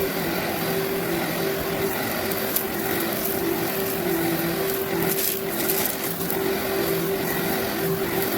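Workhorse vacuum cleaner running steadily while pre-vacuuming carpet to pull up dry soil. Its motor hum steps slightly up and down in pitch over a steady rushing hiss of air.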